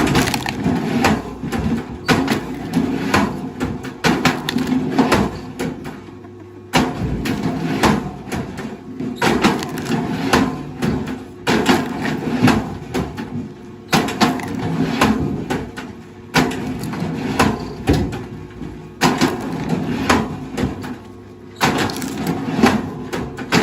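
Wood cracking and splintering as it is crushed or split by heavy machinery, with dense snapping over a steady low engine hum.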